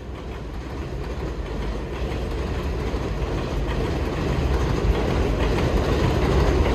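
Low rumble that grows steadily louder.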